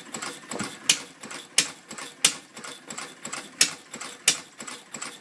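Replica of Henry Ford's 1893 single-cylinder four-stroke engine running slowly, a putter with a sharp pop about every two-thirds of a second.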